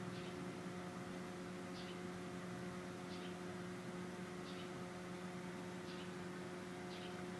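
Faint steady hum made of several low tones over a light hiss, with faint short high chirps repeating about every second and a half.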